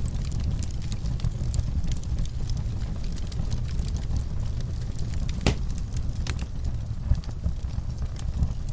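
Fireplace fire burning with a steady low rumble and scattered crackles and pops, one sharper pop about five and a half seconds in.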